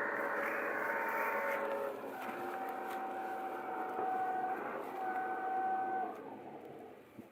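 A vehicle engine running, with a steady whine over it that drops to a lower pitch about two seconds in, then fading away near the end.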